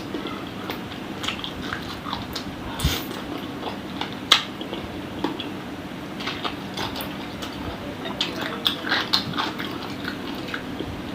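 Close-miked eating of chicken-feet satay: biting and chewing the skin and gristle off the feet, heard as irregular short clicks and mouth sounds, over a faint steady hum.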